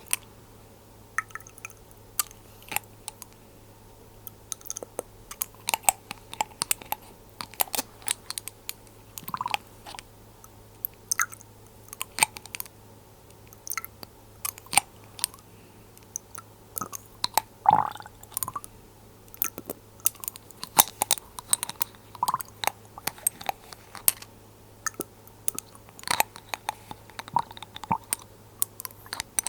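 Glass dropper bottles handled close to the microphone: irregular small clicks and taps of glass, dropper and lid, a few louder than the rest, the loudest about eighteen seconds in.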